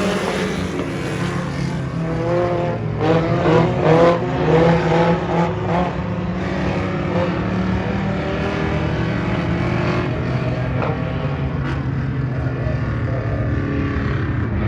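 Race car engine running steadily, with its pitch rising and falling and growing louder a few seconds in.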